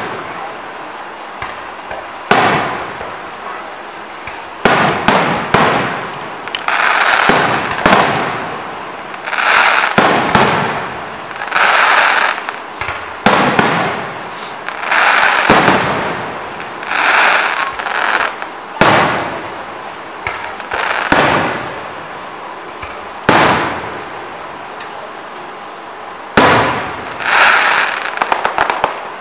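Fireworks display: aerial shells bursting in a long run of sharp bangs, often several in quick succession, each trailing off over a second or so.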